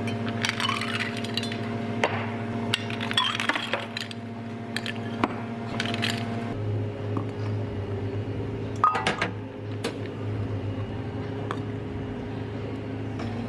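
Glassware and dishes clinking and knocking as they are handled: a run of light clinks in the first few seconds, then a sharper, ringing clink a little past the middle, over a steady low hum.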